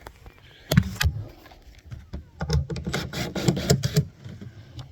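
Irregular clattering knocks and rattles of hard objects being moved about in the jon boat's hull: a few sharp knocks about a second in, then a denser run of clatter.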